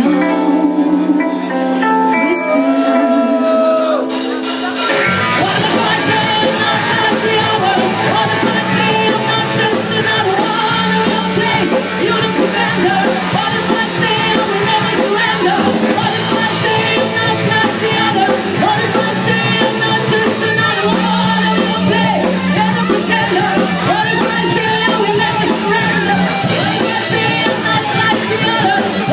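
Rock band playing live: a sparse passage of held guitar notes for about five seconds, then the full band comes in with drums and keeps up a steady rock groove.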